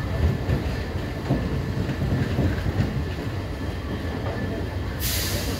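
Indian Railways passenger coach running on the track, a steady low rumble with wheel clatter, heard from on board. About five seconds in, a short burst of hiss cuts in for about half a second.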